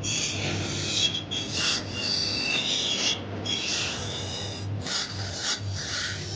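Hand filing or abrading: repeated rough rubbing strokes, roughly one a second, with short gaps between them.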